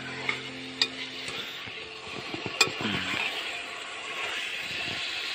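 Chicken pieces sizzling in spiced oil in a metal pot while a spoon stirs them, with a few sharp clinks of the spoon on the pot. The sizzle grows louder from about halfway through.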